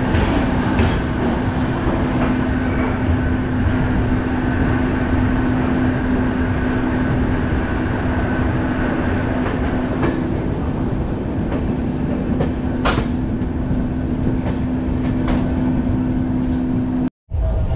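Indian Railways AC express train rolling slowly out of the station, heard at an open coach door: a steady rumble of wheels on rail with a constant hum and a fainter high whine, and two sharp clicks near the end. The sound drops out abruptly for a moment just before the end.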